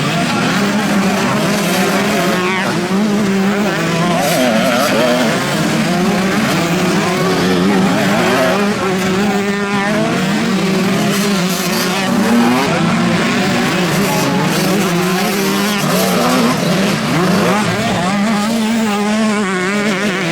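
Several motocross bikes racing at once, their engines revving up and down continually at different pitches in a steady, loud mix.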